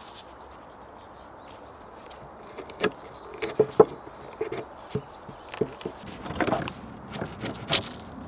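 Irregular knocks and clatters, a dozen or so, sharp and uneven, over a steady outdoor background with faint bird chirps in the first few seconds.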